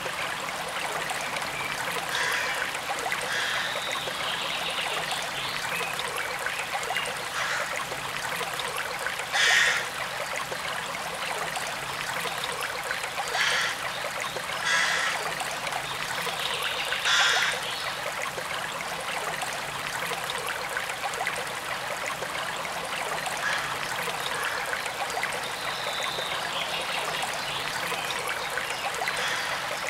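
Forest stream of running water, trickling and babbling steadily. A few brief louder bursts stand out, about a third and halfway through.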